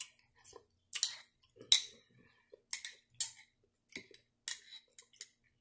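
Close-up chewing of a mouthful of crisp salad vegetables: about eight short, crisp crunches spaced irregularly, with near silence between them.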